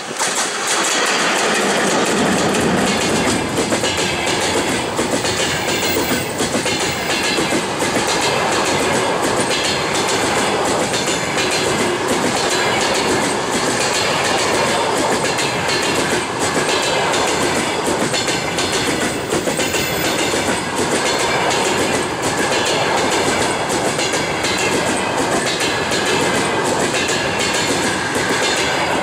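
Passenger train hauled by a 2ES4K electric locomotive passing close by: a loud, steady rumble of steel wheels on rail with rapid clickety-clack over the rail joints, setting in abruptly as the train arrives.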